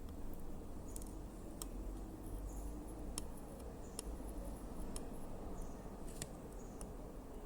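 Sparse, irregular sharp clicks over a steady low hum, with a few faint high chirps.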